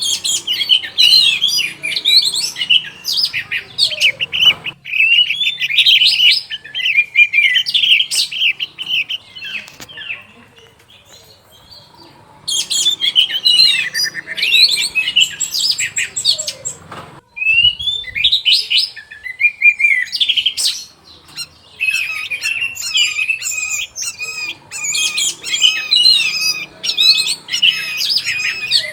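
Orange-headed thrush singing a long, rapid, varied song of high whistled and chattering phrases in extended bursts, with a pause about ten seconds in and a brief break around seventeen seconds in.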